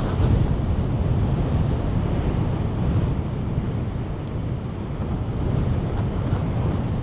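Strong wind buffeting a DJI Mic 2 wireless microphone, giving an uneven, rumbling roar, with the surf of breaking waves underneath.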